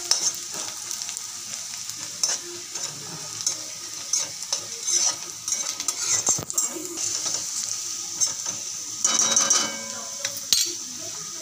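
Chopped onion with crushed ginger and garlic sizzling as it browns in hot oil, with a utensil stirring and scraping the pan again and again, a quick flurry of strokes about nine seconds in.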